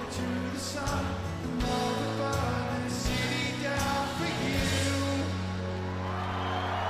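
Live rock band playing with singing, bass and drum hits, then ringing out on a long held final chord about five seconds in as the crowd begins to cheer.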